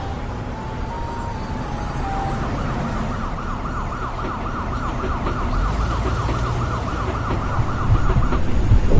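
Emergency vehicle siren: a stepping tone for the first two seconds or so, then a fast yelp warbling about four times a second that stops shortly before the end. Underneath runs a steady low rumble, which grows louder with heavy thumps near the end.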